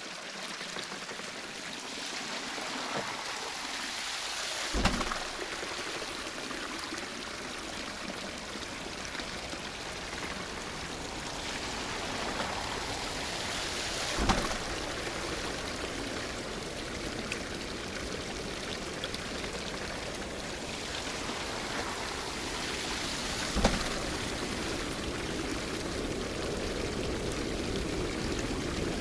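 Water running and splashing steadily at a traditional waterwheel, with a dull thud three times at even spacing, about nine and a half seconds apart.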